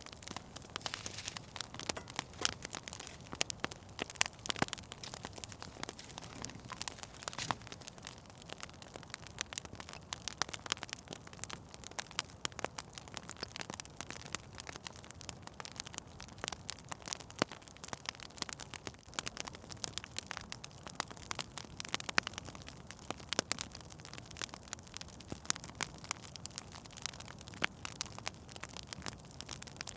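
Fire in a fireplace crackling, with many sharp pops coming at irregular intervals over a low, steady hiss.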